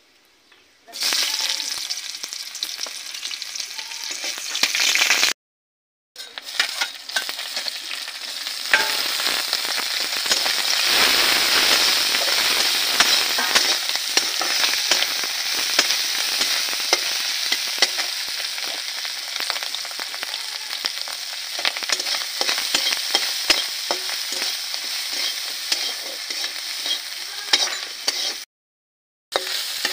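Food sizzling in hot oil in an aluminium kadai, starting suddenly about a second in as it goes into the pan, then frying steadily while a metal spatula stirs it and scrapes against the pan. The sound cuts out briefly twice.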